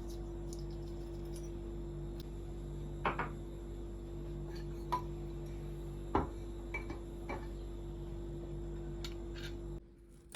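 Several light clinks and knocks of dishes or glassware being handled, over a steady low hum that cuts off suddenly near the end.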